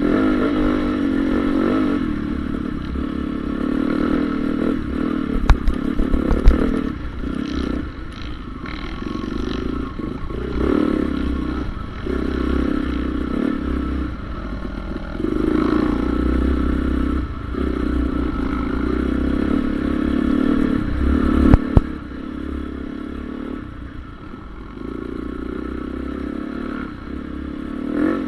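Honda CRF450R's single-cylinder four-stroke engine revving hard and backing off again and again as it is ridden. There are clattering knocks about six seconds in and again near twenty-two seconds.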